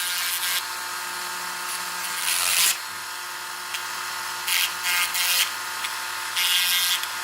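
Rubbing and scraping of a tool working at a die-cast toy's wheels, which are stuck fast on rusted axles. It comes in five short bursts over a faint steady hum, the loudest about two and a half seconds in.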